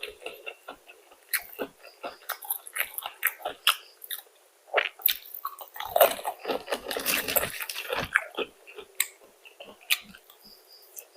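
A person biting and chewing crispy fried food: irregular crunches and wet mouth clicks, busiest around six to seven and a half seconds in.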